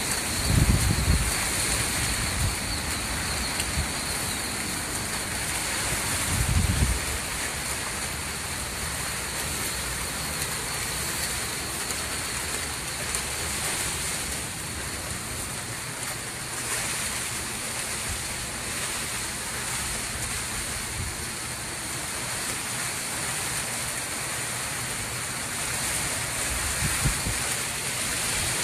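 Hurricane winds with heavy rain: a steady hiss of wind-driven rain, with gusts buffeting the microphone about a second in, around six seconds in, and again near the end.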